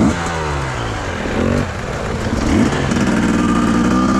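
Enduro dirt bike engine revving in short bursts, its pitch climbing and dropping several times, then held at a steady higher pitch near the end.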